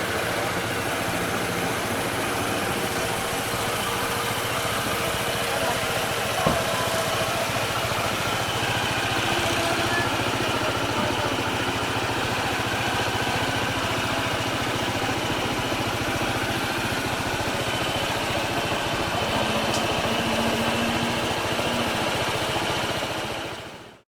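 Motorcycle engines idling and running amid steady street-traffic noise, with a single knock about six and a half seconds in; the sound fades out quickly at the very end.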